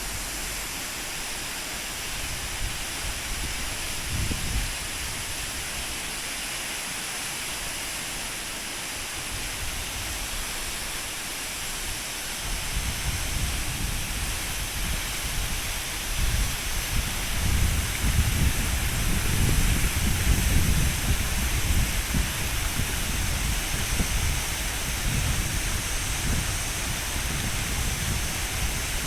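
Waterfall of about 60 m plunging straight down a cliff: a steady, even rush of falling water. An irregular low rumble joins it about twelve seconds in.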